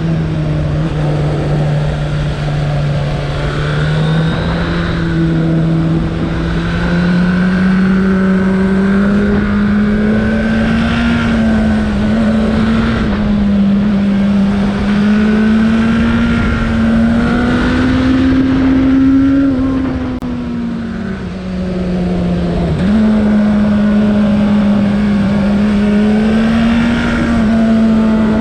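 Suzuki Bandit 1200's air/oil-cooled inline-four engine running under way, its note drifting gently up and down with the throttle over a low rushing noise. About three-quarters of the way through, the note sags and dips for a moment, then steps abruptly back up.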